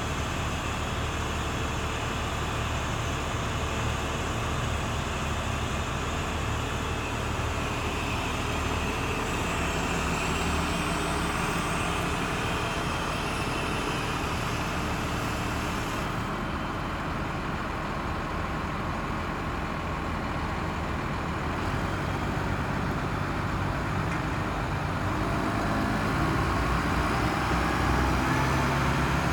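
The 1996 Ford LN7000 truck's engine running steadily, its pitch and loudness climbing in the last few seconds.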